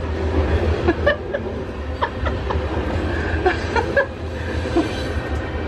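A train passing close by, a steady low rumble heard through the walls of a parked RV, with a few short higher-pitched squeaks scattered over it.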